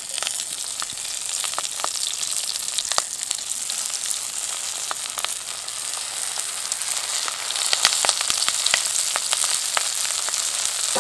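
Banana-leaf-wrapped parcels sizzling in hot mustard oil in a kadai as they are laid in one by one, a steady hiss with sharp crackles, a little louder near the end.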